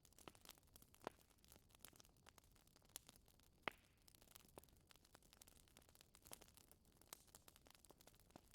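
Wood fire crackling softly in a fireplace: faint hiss with irregular small pops and snaps, the sharpest about one second and nearly four seconds in.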